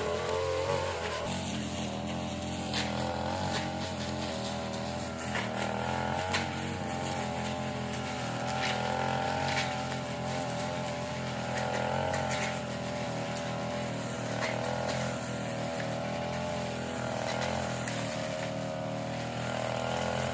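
Small petrol engine of a grass-cutting machine running steadily under load, its pitch wavering slightly, with scattered sharp ticks over it.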